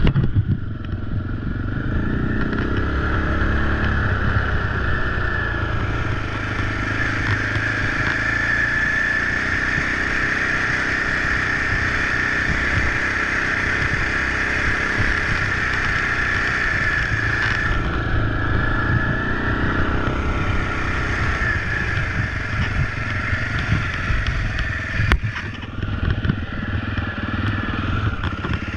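Husaberg FE 450 single-cylinder four-stroke dirt bike engine running under way, its revs rising and falling with throttle and gear changes.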